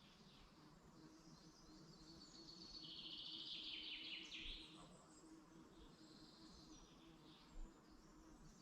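Faint songbirds singing. The loudest is a rapid trilled phrase of quick repeated notes about three seconds in, with softer calls before and after.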